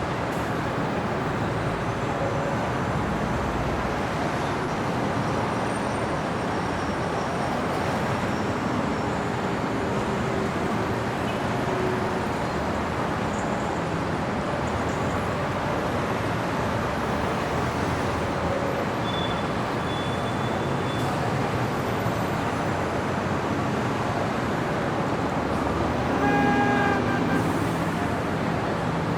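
Steady city street traffic: a constant wash of passing cars and engines. Near the end a vehicle horn honks once, for about a second.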